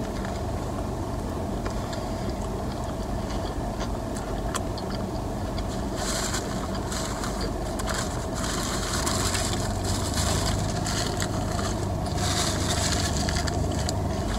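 Close-up chewing of a mouthful of double cheeseburger, with wet, crackly mouth noises that grow busier from about six seconds in, over a steady low hum inside the car cabin.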